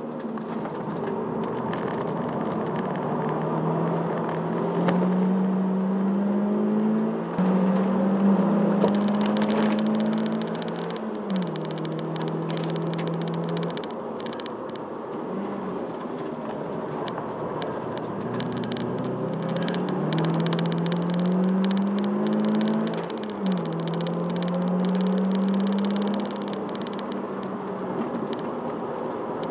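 Toyota Celica engine heard from inside the cabin, driven hard on a race circuit: its pitch climbs under acceleration, drops sharply at each gear change (three shifts), and settles lower where the driver lifts off, over road and wind noise.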